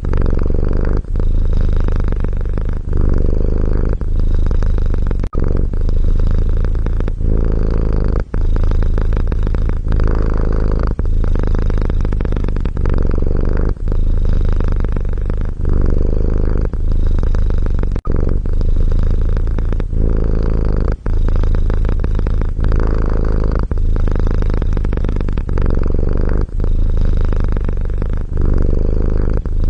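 Domestic cat purring, loud and close, in a steady low rumble broken by brief dips every second or two.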